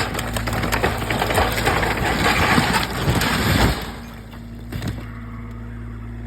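XCMG XE35U mini excavator working, with dense crunching and cracking as material is crushed over the steady run of its diesel engine. The crunching stops at about four seconds, leaving the engine running on its own.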